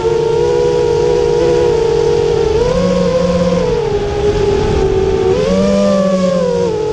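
GEPRC Stretch X FPV quadcopter's electric motors whining, several close pitches moving together; the pitch rises twice as the throttle is raised and falls back each time.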